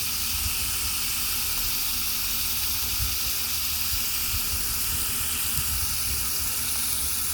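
Garden hose spraying water in a steady hiss.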